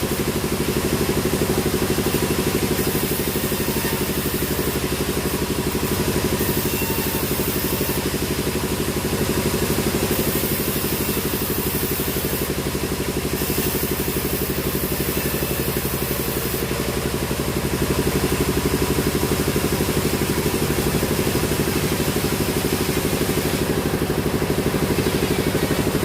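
Sawmill machinery running steadily: an engine's even, rapid pulse with a constant hum.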